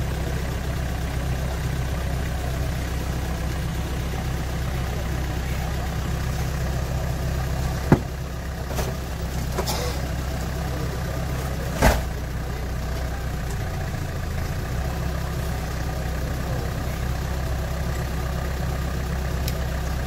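Off-road 4x4 competition vehicle's engine idling steadily, with two sharp knocks about four seconds apart.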